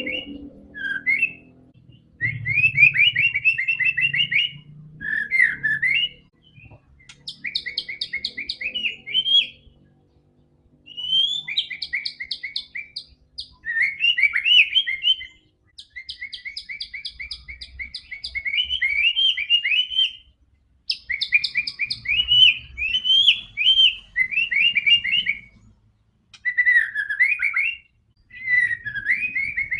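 White-rumped shama (murai batu) singing in full song: a string of phrases of rapid trills and whistled glides, each a second or few long, separated by short pauses.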